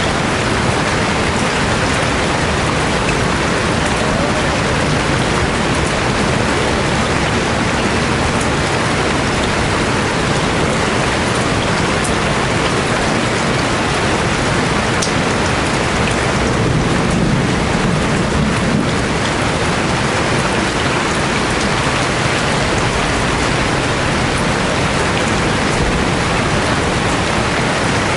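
Heavy rain falling steadily, with a brief low rumble about two-thirds of the way through.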